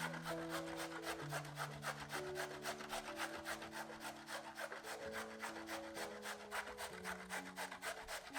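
Fast, even scraping strokes, about six a second, of food being worked by hand during kitchen preparation, over soft background music.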